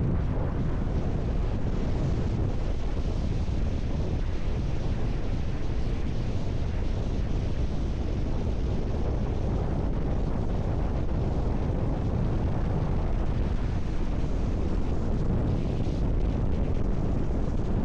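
Strong wind rushing over the microphone together with the rumble of a moving car, a steady unbroken roar.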